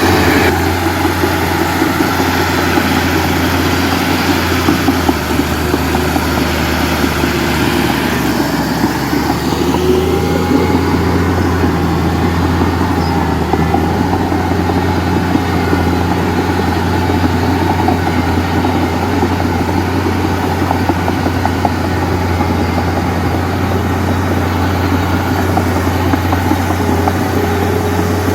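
Diesel engine of heavy earthmoving machinery running steadily with a deep continuous drone. It shifts slightly lower about five seconds in.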